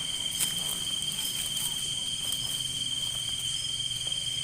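Insects such as crickets chirping in a steady, high-pitched chorus, with one sharp click about half a second in.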